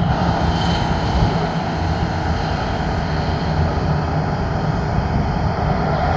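Airliner's jet engines running steadily on arrival, a loud even rush with a low hum underneath.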